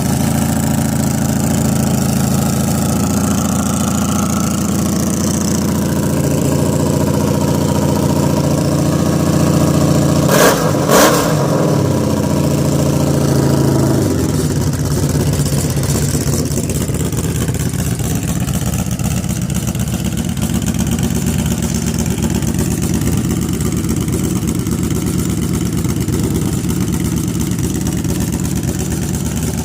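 Honda Magna V65's V4 engine running through a 4-into-1 exhaust and homemade muffler at a raised idle. Two short loud bursts come about ten seconds in, and a few seconds later it drops to a lower, steady idle.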